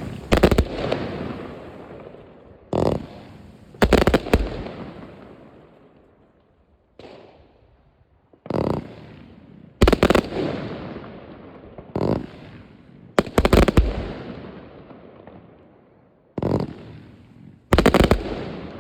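Fireworks exploding overhead: sharp bangs every one to two seconds, some in quick pairs, each trailing off in a long rolling echo.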